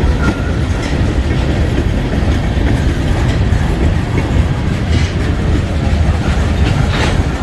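Freight train cars rolling past, a steady heavy rumble with the wheels clacking over the rail joints.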